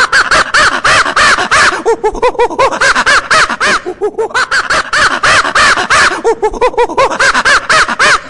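Monkey calling: a rapid series of short, arched, laugh-like calls, several a second, in a few swelling bouts, stopping abruptly at the end.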